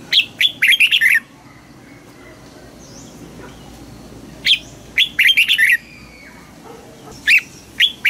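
Red-whiskered bulbul singing: three short, loud phrases of quick, clear whistled notes, a few seconds apart.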